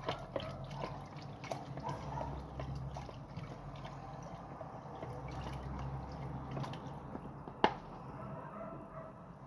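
Spoon stirring powdered sauce mix into water, with liquid swishing and light clinks against the container, and one sharper knock late on.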